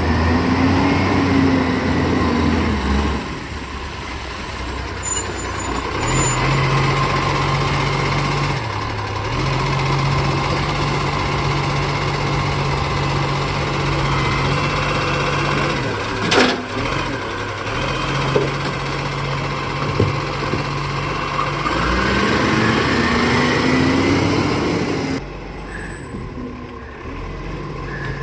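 Garbage truck running, its engine held at steady raised revs for long stretches. A whine rises and falls near the start and again about 22 seconds in, and there is a short sharp noise about 16 seconds in. The engine drops back to a lower level near the end.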